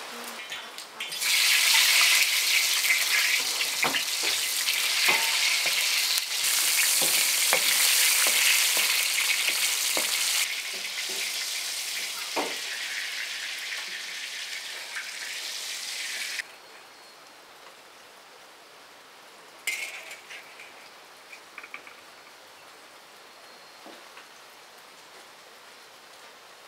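Food sizzling as it fries in a pan: a loud, steady hiss that jumps in level a couple of times and cuts off suddenly about sixteen seconds in, followed by a few light clicks.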